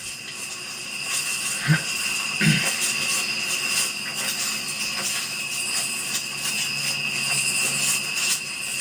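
Insects, likely crickets, trilling steadily in a high, even chorus. Two short low sounds break in about two seconds in.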